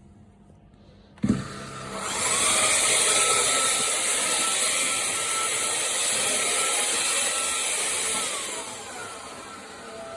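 Cecotec Scoba 2100 Twice cordless stick vacuum switched on with a click: its motor whines up to speed, runs with a steady rushing of air for about six seconds, then winds down as it is switched off.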